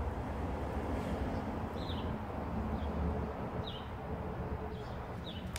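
A small bird chirping over and over, short falling chirps about once a second, over a steady low rumble.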